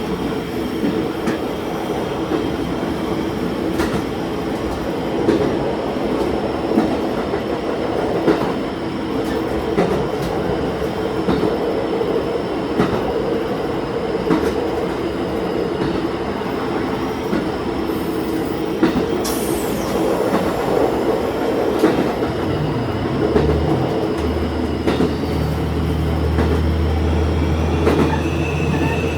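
Diesel railcar running along the line, heard from inside the train: a steady engine and running drone with occasional sharp clicks from the wheels crossing rail joints. About 24 seconds in, a deeper low hum joins.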